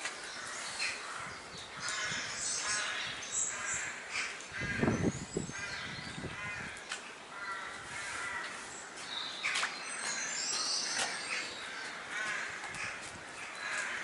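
Birds calling outdoors, short harsh calls repeated again and again, with some higher chirps among them. A brief low rumble comes about four and a half seconds in.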